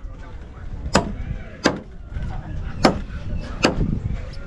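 Hammer blows, four sharp strikes about a second apart, on building work with corrugated iron roofing sheets.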